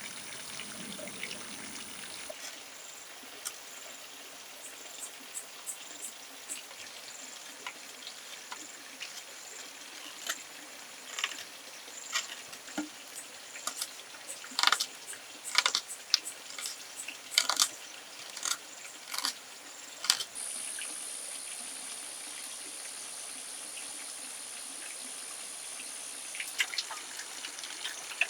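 Water trickling and dripping, with a run of sharp clicks and knocks in the middle stretch. A steady high-pitched hiss stops about two seconds in and comes back about two-thirds of the way through.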